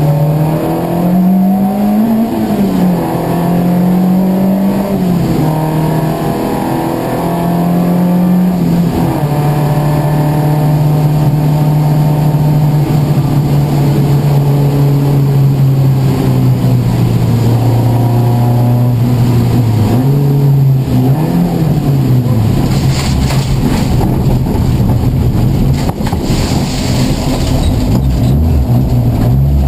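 Race car engine running at moderate revs in the wet. Its pitch rises and falls with throttle and gear changes, then holds steady for about ten seconds. Near the end, after a couple of quick blips, a loud, rough hiss joins the engine.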